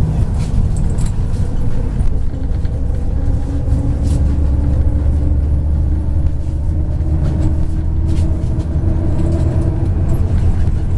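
Inside a MAZ 103 city bus on the move: a steady low engine and road rumble with a drivetrain whine that climbs slightly in the second half, and scattered light rattles.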